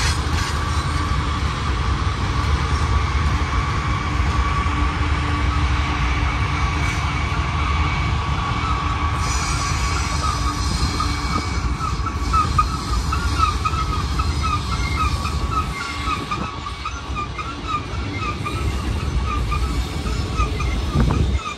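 Long freight train's cars rolling past with a steady low rumble of wheels on rail. A thin high wheel squeal runs over it and breaks into rapid chirping about halfway through.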